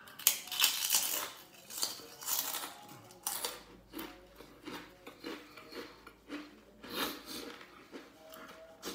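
Close-up eating sounds: irregular crunchy bites and chewing, loudest in about the first second and again around two, three and seven seconds in.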